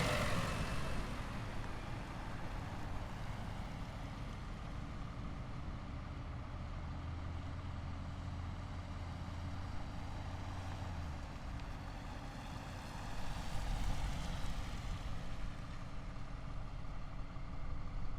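Heavy military vehicles driving past on a road: one loud pass fades away in the first second, then a steady low engine drone, with another vehicle coming closer about 13 seconds in.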